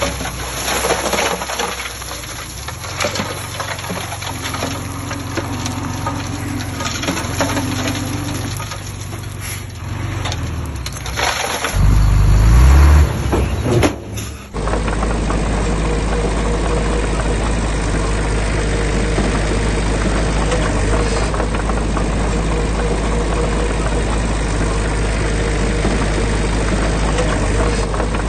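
Heavy diesel construction machinery working, with a short loud rev about halfway through. Then an abrupt change to a steady, low diesel engine drone that carries on to the end.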